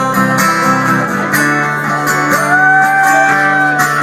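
Acoustic guitar playing a slow live intro: strummed chords, with a long held lead note that bends slightly, starting about two and a half seconds in.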